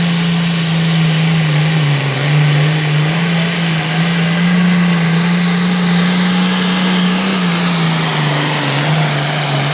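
Limited pro stock pulling tractor's turbocharged diesel engine running flat out under load as it drags the pulling sled. It makes a loud, steady, high-revving drone whose pitch sags briefly about two seconds in and again near the end.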